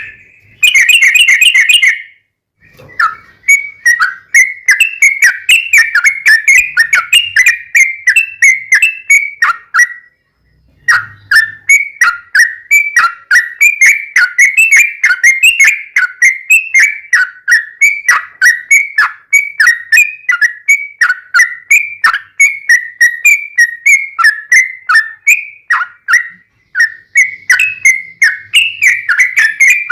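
Yellow-vented bulbul (trucukan) singing a long, fast run of short chattering notes, with a short break about ten seconds in. It is the long rolling 'ropel' song used as a lure to make other trucukan answer.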